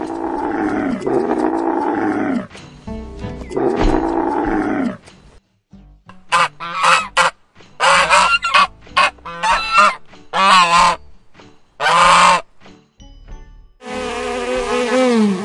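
A sequence of animal sounds. First, a camel's long, low calls that bend in pitch, several in a row for about five seconds. Then geese honking in a string of short calls, and near the end a bee buzzing with a steady hum.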